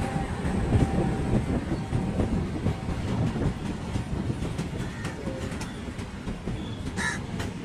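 Freight train of covered goods wagons rolling past at speed: a steady rumble with rapid clickety-clack of wheels over the rail joints, slowly fading. A short high screech comes near the end.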